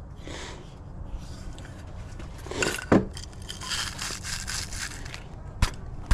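Rubbing and scraping of hands and tools working inside a gas furnace's burner area, over a steady low hum, with a sharp knock about three seconds in and another near the end.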